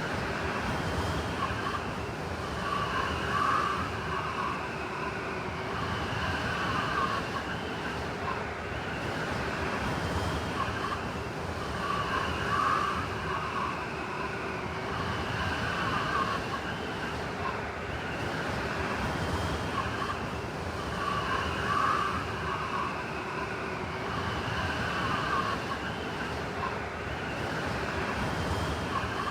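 Blizzard wind: a steady rush of wind with a howling whistle that rises and falls, swelling in gusts every few seconds.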